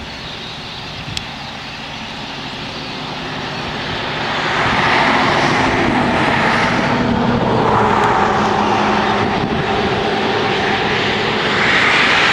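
Rushing roar of a large flock of blackbirds' wings in flight, swelling in waves from about four seconds in and peaking again near the end.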